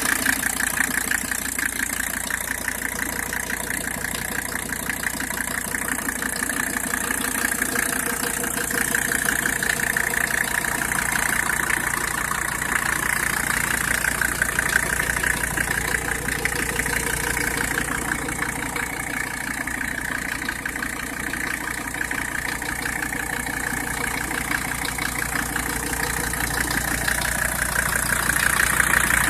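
1985 Mercedes-Benz 300D Turbo's five-cylinder turbodiesel engine idling steadily with an even, rapid diesel clatter. It runs smoothly, so smoothly that the owner suspects it is not the original motor.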